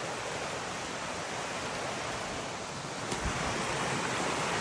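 Steady rush of a rain-swollen river running heavily, with a brief low thump about three seconds in.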